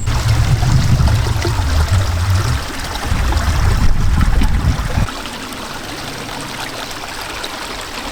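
Strong gusty wind, buffeting the microphone with a heavy low rumble that drops away about five seconds in, leaving a steady rushing hiss.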